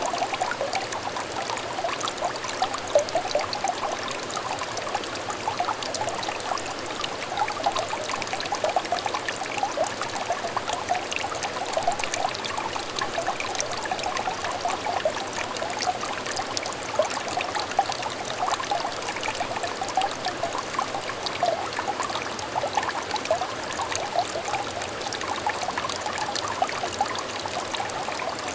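Small stream trickling and babbling over stones: a steady burble of many small splashes and bubbling droplets, with no breaks or changes.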